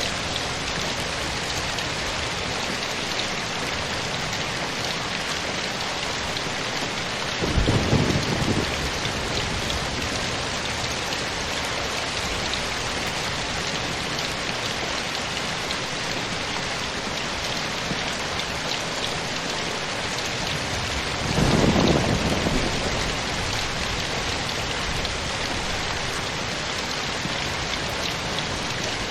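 Steady heavy rain, with two short low rumbles of thunder, about seven seconds in and again about twenty-one seconds in, each lasting a second or two and louder than the rain.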